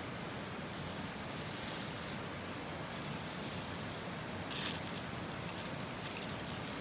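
Steady outdoor background hiss with a few short, sharp crackles, the loudest about four and a half seconds in.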